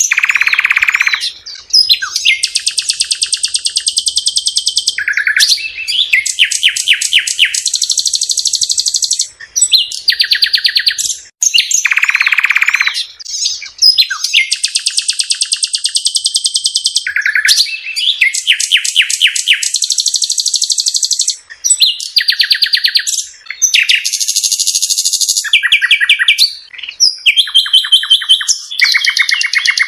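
A songbird singing a long, loud, continuous song made of rapid trills and buzzy phrases, each lasting a second or two and changing from one to the next.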